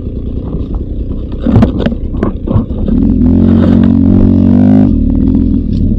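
Beta 300 RR two-stroke dirt bike engine running at low revs with a few clattering knocks, then held at higher steady revs for about two seconds from about three seconds in, before dropping back abruptly.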